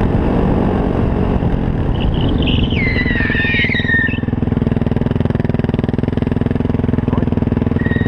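Yamaha WR450F supermoto's single-cylinder four-stroke engine running as the bike slows, with wind noise, then dropping to an even idle about four seconds in. A high squeal falls in pitch between about two and four seconds in, and a shorter one comes near the end.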